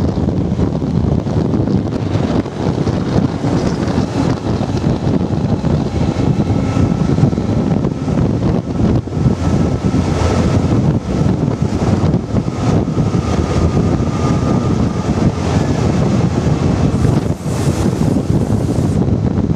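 Passenger train hauled by a Class 68 diesel locomotive, heard on board while running: a loud, steady rumble with wind noise on the microphone and a faint thin tone through the middle.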